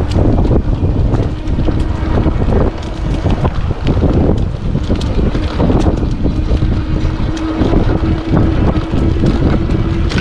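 Wind buffeting the action camera's microphone on a moving e-bike, with tyres rolling over the leaf-strewn trail and many small ticks. A faint steady whine from the e-bike's electric motor runs under it, clearest in the second half.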